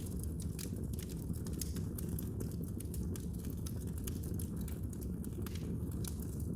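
Wood fire in a fireplace crackling, with frequent small irregular pops over a steady low rumble of the flames.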